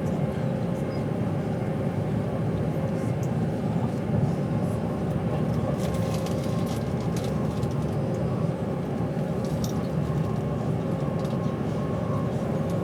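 Steady rumble of an Avanti West Coast intercity train running, heard from inside the carriage, with a faint steady hum and a few light ticks partway through.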